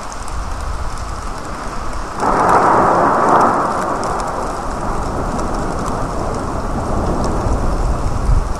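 Rain falling on a wet street during a thunderstorm, with a low rumble underneath. About two seconds in, a sudden louder rush of noise comes in and fades slowly over the next few seconds.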